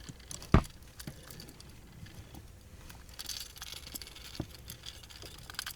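Handling sounds while a pike is unhooked from a wobbler's treble hooks in a boat: one sharp knock about half a second in, then scattered light clicks and rustling.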